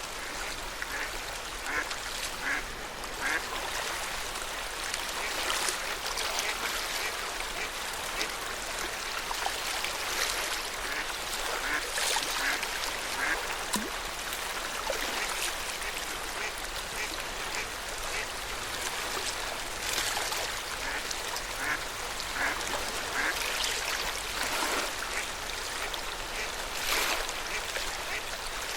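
Lake water lapping and splashing steadily along the shore, with repeated short bird calls throughout.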